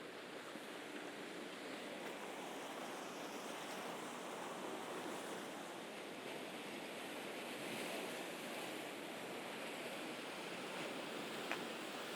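Sea waves washing on the Mediterranean shore, a steady wash that swells gently and is fullest about two-thirds of the way through. A single small click near the end.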